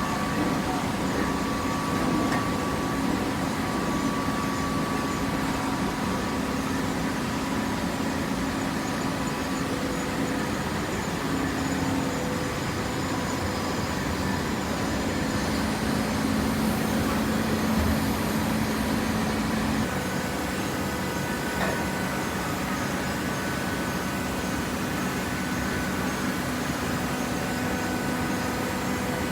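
Hydraulic paper baling press running: a steady machine hum with a few held tones, whose pitch shifts about two-thirds of the way through as the press changes stage.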